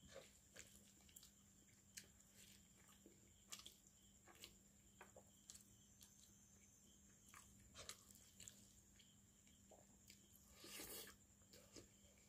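Faint eating sounds: a person chewing a mouthful of fish curry and rice with scattered soft wet mouth clicks, and fingers squishing through the curried fish and rice. A longer, louder smacking sound comes near the end, over a faint steady electrical hum.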